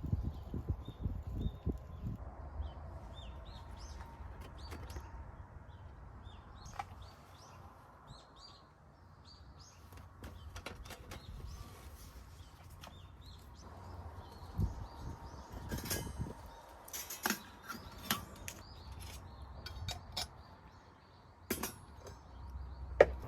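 Small birds chirping on and off, with scattered sharp clicks and knocks, the loudest near the end.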